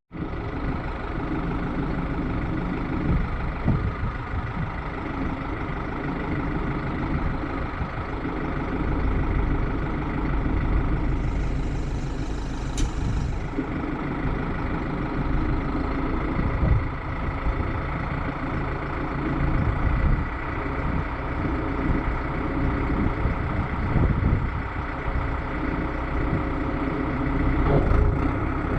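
Heavy vehicle engine running steadily, with a brief hiss and a click about halfway through.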